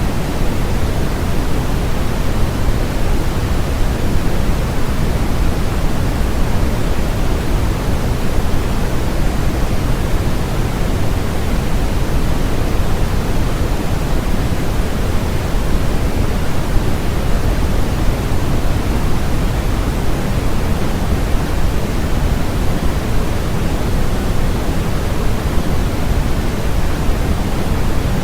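Steady synthetic white-noise track: an even, unbroken hiss, fuller in the low end than the high, with no change in level or character.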